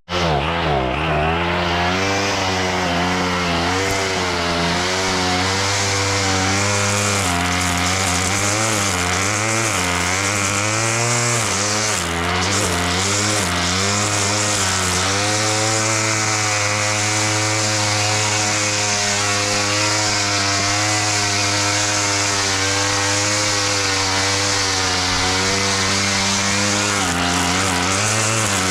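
Small petrol engine of a grass-cutting machine running steadily, its pitch wavering up and down as the load from the grass changes.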